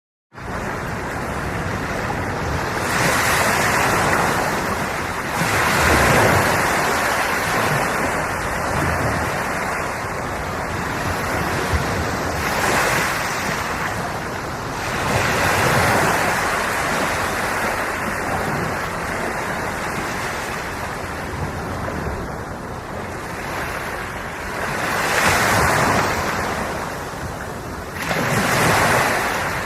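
Ocean waves breaking and washing in, cutting in abruptly about half a second in, then swelling and fading in irregular surges every few seconds.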